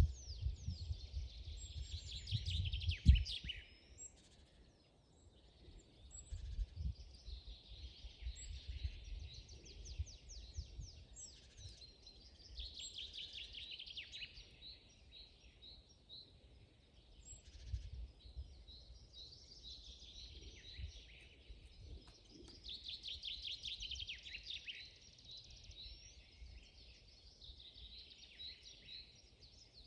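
Several wild birds singing in a forest, with overlapping songs and rapid trills that come and go. A low rumble sits underneath, strongest for the first four seconds.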